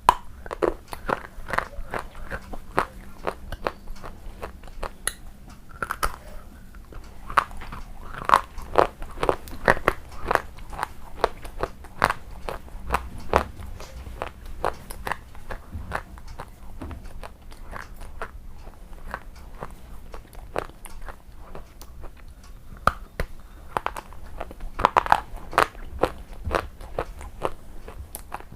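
Close-miked eating: a person biting into and chewing crunchy food, with a rapid run of sharp crunches throughout.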